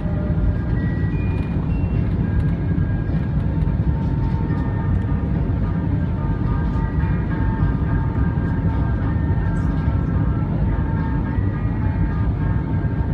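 Airbus A320 passenger cabin noise with the jet engines running: a steady heavy rumble under several thin whining engine tones that shift slightly in pitch.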